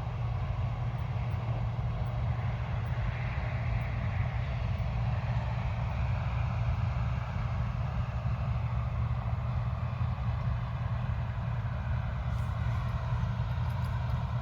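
Large farm diesel engine running steadily under load: a deep, constant hum with broad machine noise over it. There are a few faint clicks near the end.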